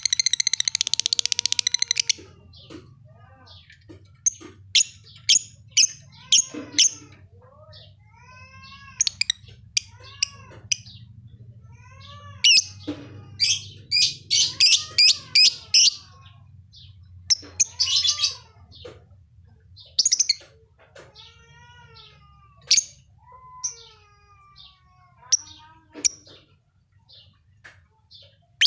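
Lovebird calling steadily: sharp high chirps and rapid runs of trilled notes, in bursts separated by short gaps, over a low steady hum.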